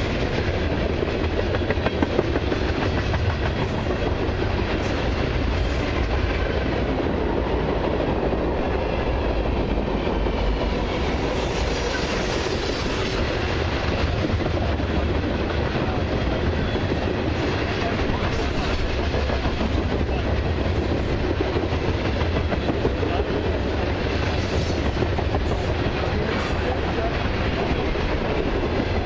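Freight train cars, autoracks among them, rolling past: a steady rumble of steel wheels on rail with clickety-clack over the rail joints.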